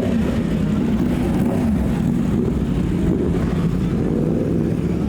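Car engine running loud and steady, its pitch wavering slightly.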